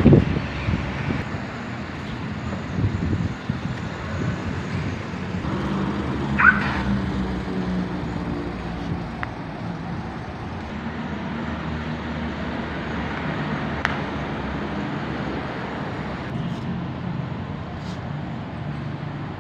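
Motor vehicle running amid road traffic noise, a steady low hum with a short high squeak about six seconds in.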